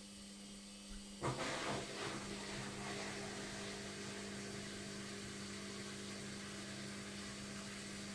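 LOGIK washing machine during its final spin: a steady hum, then about a second in a sudden rushing hiss starts and carries on steadily.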